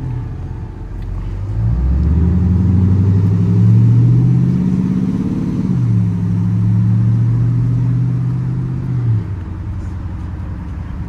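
Straight-piped, catless Dodge R/T V8 exhaust under acceleration: the engine note grows louder and rises in pitch for a few seconds, drops sharply at a gear change, holds steady, then falls away as the throttle is lifted.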